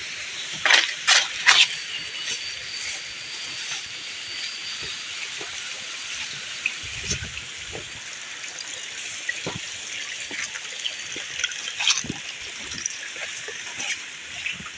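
Steady rush of falling water, with a few sharp knocks about a second in and another near the end.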